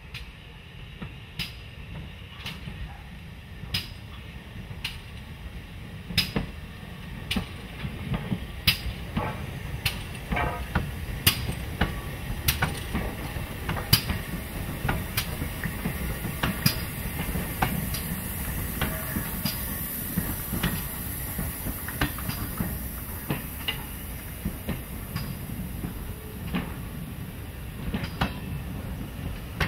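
Steam-hauled passenger train rolling slowly past, its carriage wheels clicking over the rail joints about once a second, over a low rumble that grows as the coaches go by.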